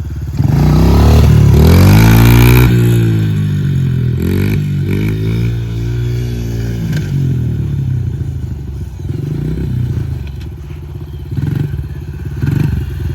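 Honda CRF pit bike's small single-cylinder four-stroke engine revved hard from first gear about half a second in, pitch rising for about two seconds and then dropping off, followed by a couple of shorter throttle blips and uneven lower running. These are throttle bursts to lift the front wheel for a wheelie.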